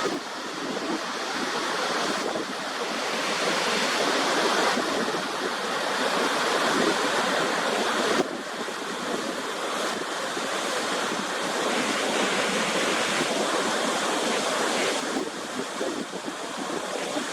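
Steady rushing noise of a waterfall's falling water, with sudden shifts in level and tone several times, including a sharp drop about eight seconds in, as one recording gives way to another.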